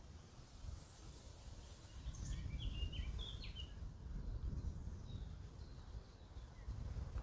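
Low rumble of wind on the microphone, with a quick run of short, high bird chirps near the middle.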